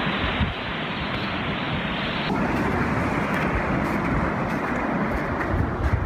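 Winter sea wind buffeting the microphone in uneven low gusts over a steady rushing noise of wind and surf.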